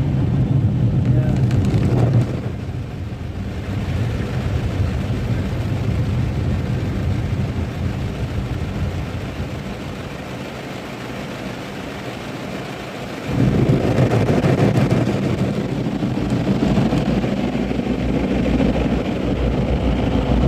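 Automatic tunnel car wash working over a car, heard from inside the cabin: a steady rush of water and machinery on the bodywork. It drops back about two seconds in and surges suddenly louder again about thirteen seconds in.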